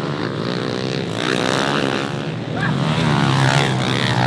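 Small pit bike engines revving up and down as several bikes ride laps of a dirt track, their pitches rising and falling and overlapping.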